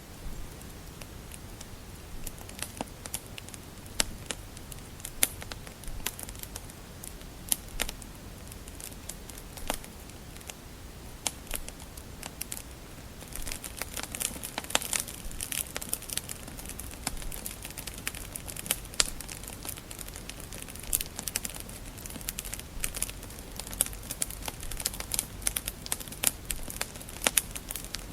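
Wood fire crackling in a fireplace: irregular sharp pops and snaps over a low steady hiss, getting busier about halfway through.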